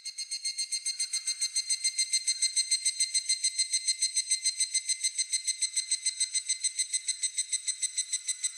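Higurashi (evening cicada) calling: a rapid ringing run of about ten pulses a second that swells in over the first second or two and then holds steady.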